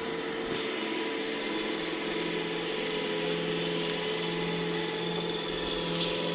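iRobot Roomba E6 robot vacuum running, its suction motor and brushes giving a steady hum with a few held tones over a hiss. A brief rush of hiss rises near the end.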